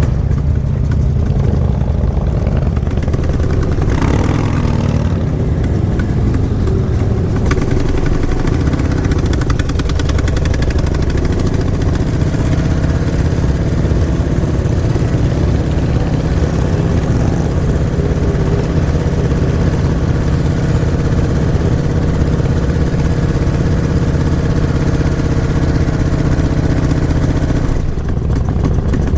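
Motorcycle engine running steadily, a loud, continuous low rumble.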